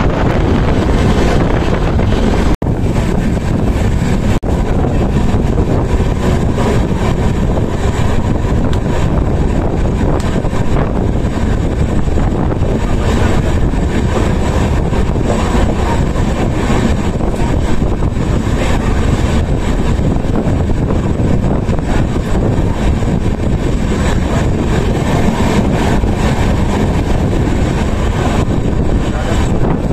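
Wind rushing over the microphone from a moving passenger train, with the steady running noise of the train beneath it. The sound cuts out for an instant about two and a half seconds in.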